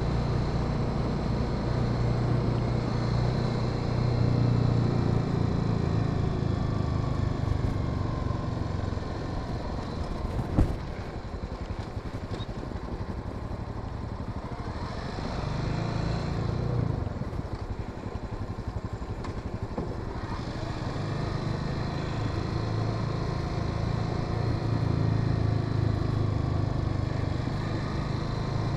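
Honda Sahara 300's single-cylinder engine running under way, with road and wind noise. There is a single sharp click about ten seconds in. The engine drops back through the middle and then pulls harder again near the end.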